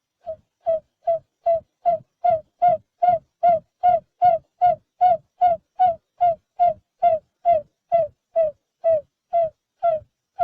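Barred buttonquail giving a long, even series of short hooting notes, about two and a half a second, each dropping a little in pitch and growing louder over the first few seconds.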